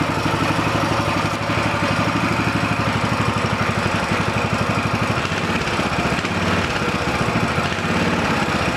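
Coleman CT200U-EX mini bike's 196 cc single-cylinder four-stroke engine idling steadily.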